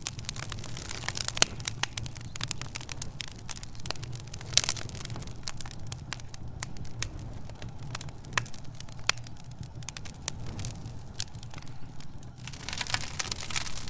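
Wood fire in a fireplace crackling, with irregular sharp pops and snaps over a steady low rumble. The crackling thins out in the middle and grows denser again near the end.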